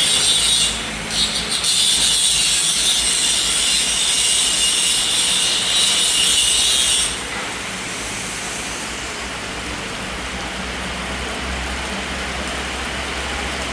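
Heavy rain: a loud hiss for about the first seven seconds, then dropping to a softer, steady rain noise.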